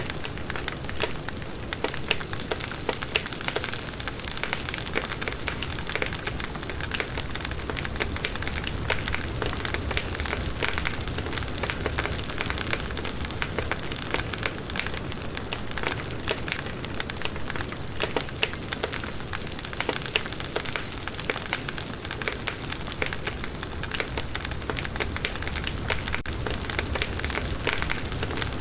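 Wood fire burning steadily, with dense continuous crackling and popping of the firewood.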